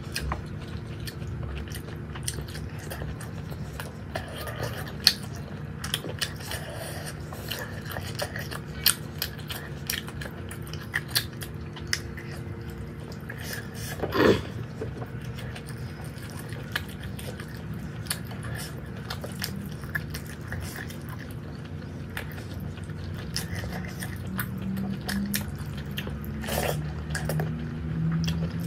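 Close-up chewing and mouth sounds of a person eating rice and fried buffalo tongue by hand, with many small wet clicks and smacks over a steady low hum. There is one louder short sound about halfway through.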